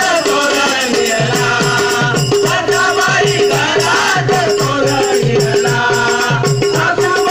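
Marathi devotional bhajan: voices singing over a held drone, with small hand cymbals jingling and a drum keeping a steady quick beat.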